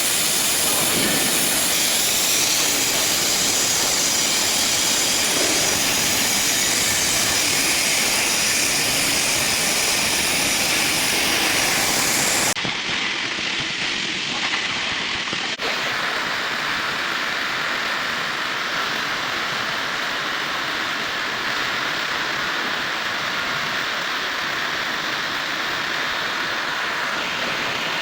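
Steady, loud hissing rush of a cutting torch on a CNC pipe-cutting machine as it cuts steel pipe. The sound changes abruptly twice near the middle.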